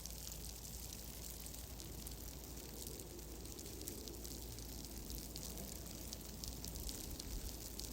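Fireplace fire crackling, many small irregular pops and snaps over a steady low rumble.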